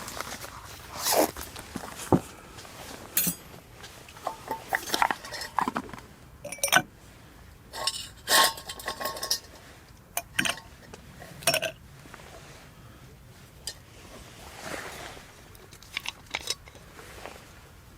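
Intermittent clinks, knocks and light scrapes of cookware and utensils being handled, a few strikes ringing briefly; the handling is busier in the first two-thirds and thins out toward the end.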